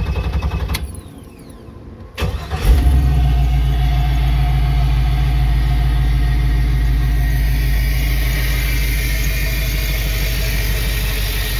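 GM 5.3-litre V8 being started: the starter cranks briefly, then after a short pause the engine fires about two seconds in, flares up and settles into a smooth, steady idle, purring like a kitten.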